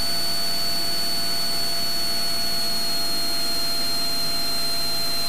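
Steady in-flight cabin noise of a Cessna 182 Skylane's piston engine and propeller: an even hiss with a thin high whine on top.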